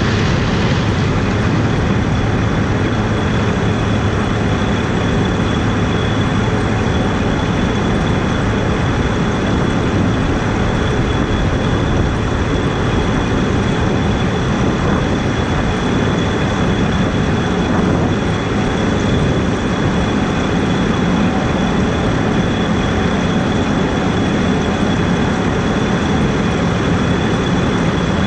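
Heavy harvest machinery running steadily, with a constant high-pitched whine above the even engine noise.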